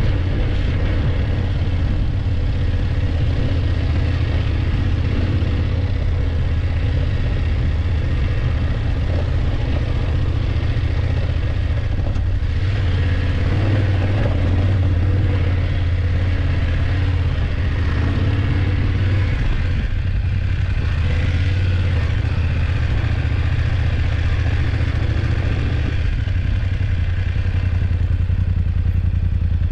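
BMW F850GS parallel-twin engine running at a steady pace as the motorcycle is ridden, with road and wind noise.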